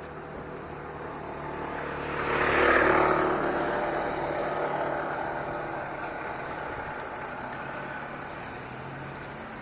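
A motor vehicle passing by, its engine and road noise swelling to a peak about three seconds in, then slowly fading away.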